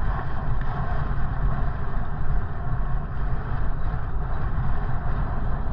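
Wind rumbling and buffeting on the microphone of a moving bicycle ride, a steady low, uneven roar with no pauses.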